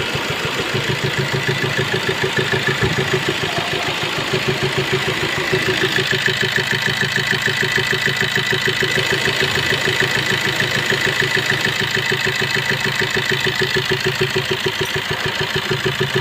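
Suzuki S-Cross 1.3 four-cylinder diesel engine idling with a rhythmic phat-phat-phat noise, the sign of a broken rocker arm.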